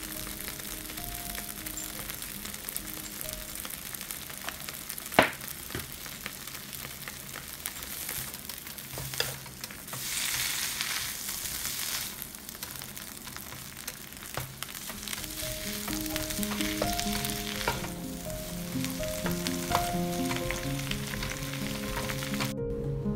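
Leafy greens and garlic sizzling in oil on a BRUNO electric hot plate, stirred with a wooden spatula. There is a single sharp knock about five seconds in, and the sizzle swells for a couple of seconds around the middle. Soft piano music plays underneath, mostly in the second half.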